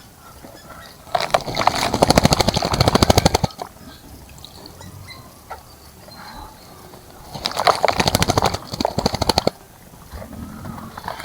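A bird bathing in a bird bath, beating its wings in the water: two bouts of rapid fluttering splashes, each two to three seconds long, about six seconds apart.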